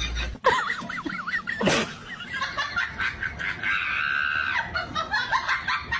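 High-pitched screaming cries that waver up and down, with one long held scream about four seconds in.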